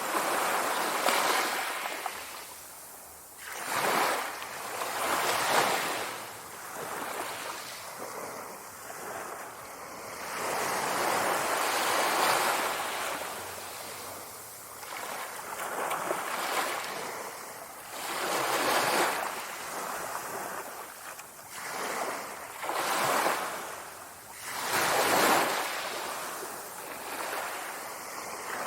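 Sea waves washing onto the shore, each swell rising and falling away every few seconds.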